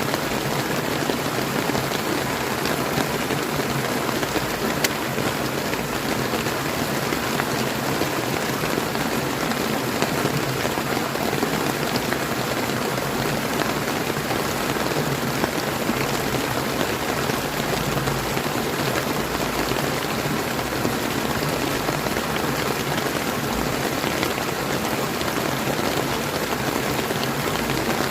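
Steady rain pattering on surfaces, mixed with the rush of a clear flowing river, an even, unbroken wash of sound.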